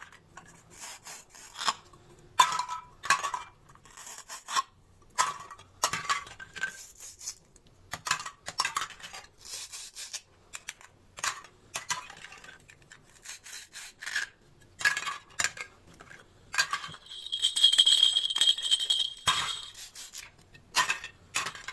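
Plastic toy fruit and vegetables being cut and handled: a run of separate light plastic clicks and clacks, with a longer scraping sound lasting about two seconds near the end.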